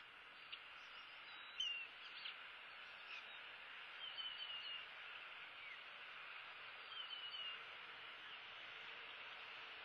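Birds calling in the background over a steady outdoor hiss: scattered short chirps and downward-sweeping calls, with two brief runs of quick high notes, the loudest call about a second and a half in.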